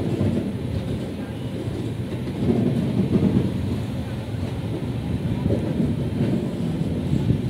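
Intercity express train with LHB coaches running along the line: a steady, dense low rumble of wheels on rail. It grows a little louder about two and a half seconds in.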